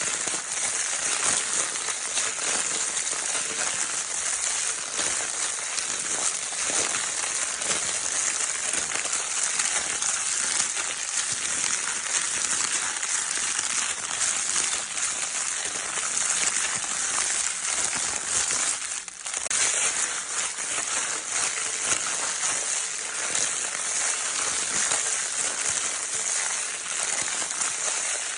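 Baby crinkle paper toy being crinkled continuously: a dense, steady crackling rustle, with a brief lull about two-thirds of the way through.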